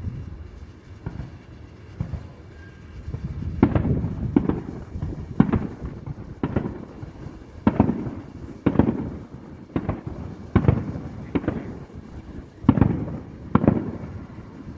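Fireworks display: aerial shells bursting in a steady run of booms about once a second, each followed by a low rumbling echo. The booms start a few seconds in, after a stretch of lower rumble.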